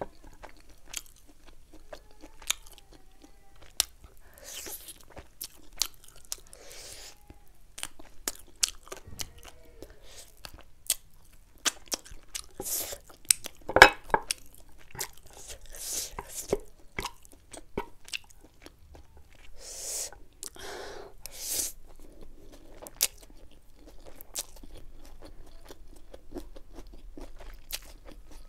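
Close-miked chewing and mouth sounds of a person eating saucy chilli chicken wings: many wet lip smacks and clicks, with several short crunchy bursts, the loudest about halfway through.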